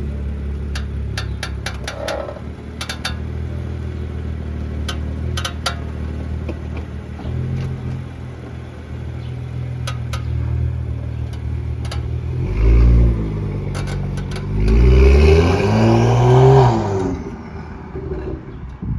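BMW M2 engine running steadily at low speed, with scattered sharp clicks from the car, some in quick clusters. The owner suspects the KW coilovers, having already checked the brakes, lower control arms and wheels. The engine revs up briefly about two-thirds in, then accelerates harder through several rises and falls near the end.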